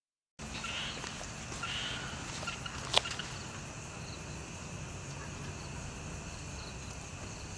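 Steady chirring of night insects such as crickets, with even pulsing high notes over a low background hum. One sharp click about three seconds in.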